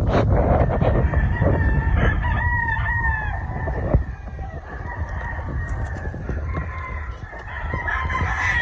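Gamefowl roosters crowing, with overlapping crows about two seconds in and another starting near the end, over a steady low rumble.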